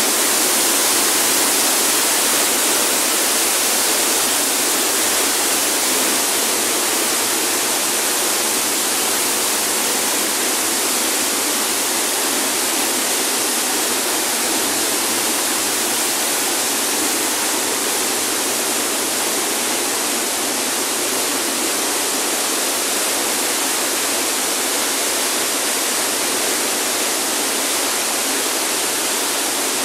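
Waterfall pouring: a loud, steady rush of falling water, loud enough to drown out a voice.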